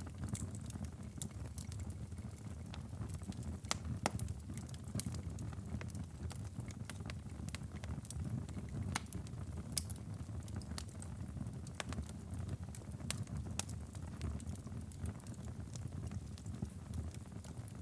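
Wood fire crackling and popping, sharp irregular pops over a steady low rumble. Rain and distant ocean surf may blend into the background rumble.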